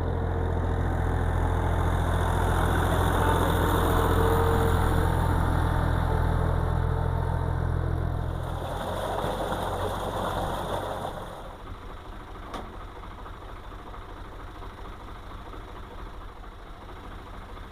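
Tractor engine running steadily while working a muddy paddy field, then dying away about nine to eleven seconds in, leaving a quieter background; a single sharp click comes a little after.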